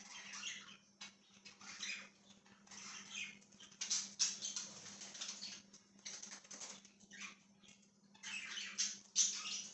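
A flock of pet budgies chirping and chattering in irregular bursts, with short lulls between.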